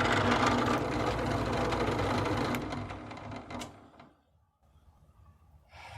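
Drill press running with its bit boring into a walnut rifle stock blank, a steady motor hum and cutting noise. About three seconds in it is switched off and winds down.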